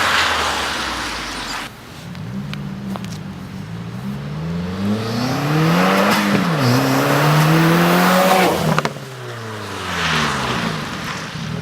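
2015 Subaru WRX's turbocharged flat-four running through a muffler-delete exhaust, the engine note climbing, dropping back about six seconds in, climbing again and then falling away.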